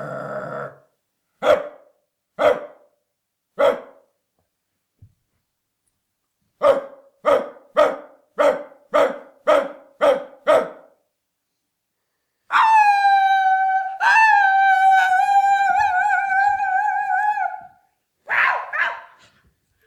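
Dog-like barking: three single barks, then a run of seven quick barks, then one long howl held on a steady pitch, and two more barks near the end.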